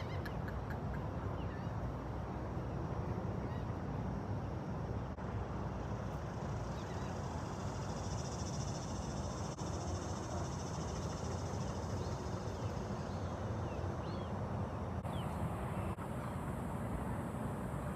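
Bird calls: a few short chirps over a steady low background rumble.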